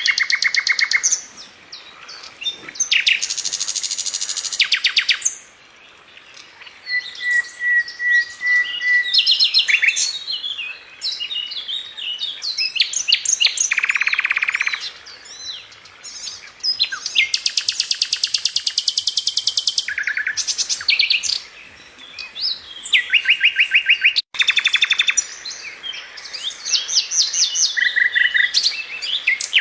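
Songbird song: high-pitched phrases of rapid trills and chirps, each a few seconds long, separated by short pauses, with a brief sharp cut about three quarters of the way through.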